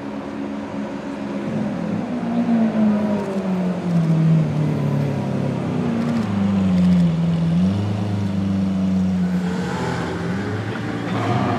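Car engine running at low revs, its pitch rising and falling slowly several times as the throttle is worked.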